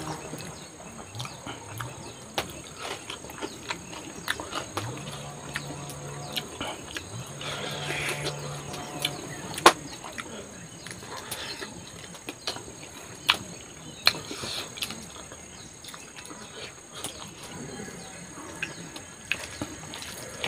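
Close-up eating sounds: wet chewing and lip smacks from a man eating rice with his fingers, with two low hummed "mm" sounds about five and seven seconds in, each lasting a second or two. A steady high-pitched drone runs underneath.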